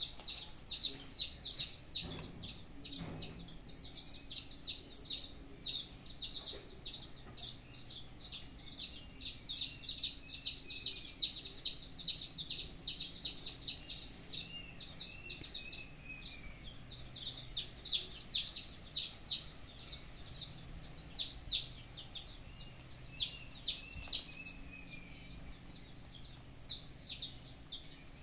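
Birds chirping off camera: a fast, continuous run of short, high, falling chirps, several a second, with a few lower warbled notes in between.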